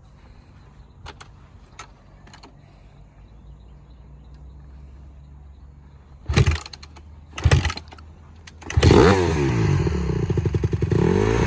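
Honda CRF450R dirt bike's single-cylinder four-stroke engine being started: two short bursts as it fires briefly, then about nine seconds in it catches and runs, revving up and down.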